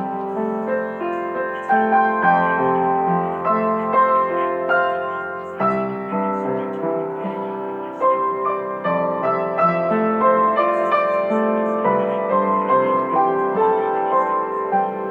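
Gentle piano music: sustained notes and slowly changing chords, with no voice.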